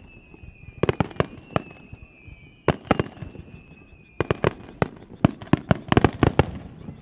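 Fireworks shells bursting in clusters of sharp bangs, a few at a time early on and then a dense rapid run from about four seconds in.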